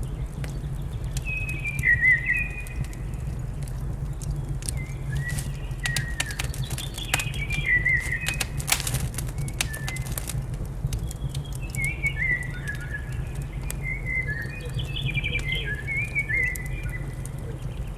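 Small birds chirping in short, repeated, stepped-down phrases, over the sharp snaps and pops of a crackling wood fire and a steady low rumble.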